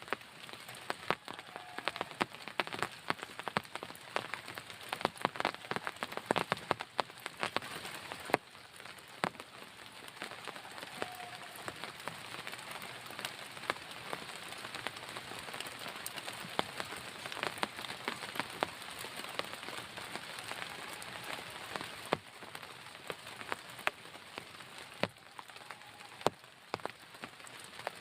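Heavy rain falling on a tent, a steady hiss with many sharp, irregular drop strikes. The strikes are thickest in the first several seconds.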